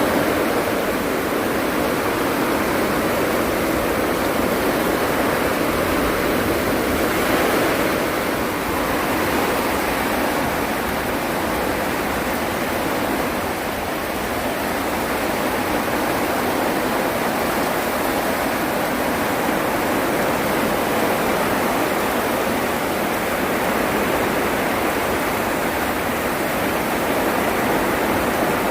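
Heavy rain pouring down in a steady, dense hiss that never lets up.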